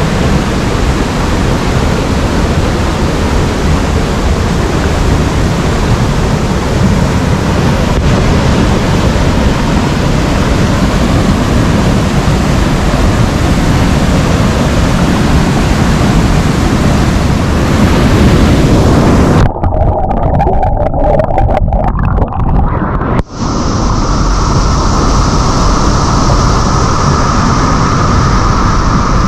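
Loud, steady roar of a waterfall's rushing water close by. About twenty seconds in the sound turns abruptly duller for a few seconds, then changes tone again.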